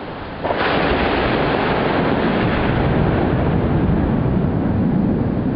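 A close thunderclap breaks suddenly about half a second in and rolls on as a loud, long rumble that settles lower toward the end.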